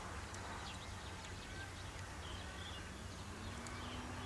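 Outdoor ambience: faint, scattered bird chirps over steady background noise and a low hum, with a low steady tone that rises slightly in pitch about three and a half seconds in.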